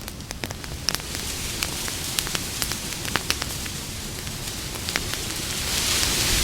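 Campfire crackling: irregular sharp pops and snaps over a steady hiss of burning wood, the hiss swelling briefly near the end.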